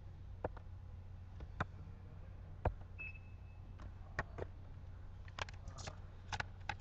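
Sporadic sharp clicks from a computer being operated, coming more often near the end, over a low steady hum. A short high beep sounds about three seconds in.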